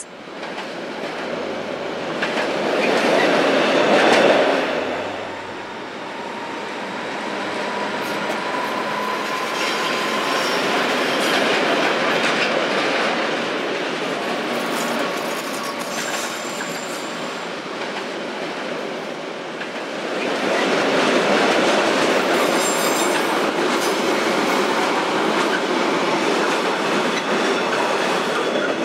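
Metre-gauge freight train hauled by a Rhaetian Railway Ge 4/4 I electric locomotive rolling past: steady rumble of wagons with wheels clattering over the rails, swelling and easing as the train passes, and thin high wheel squeals about two-thirds of the way through.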